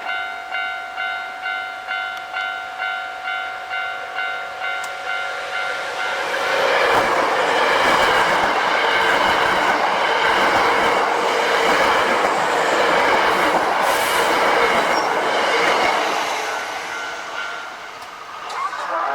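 A Japanese level-crossing alarm ringing in even strikes about twice a second, then a Hankyu 5300-series electric train passing at speed over the crossing, its wheels and running gear on the rails loud for about ten seconds and drowning the alarm. The train noise fades near the end, and the alarm is heard faintly again.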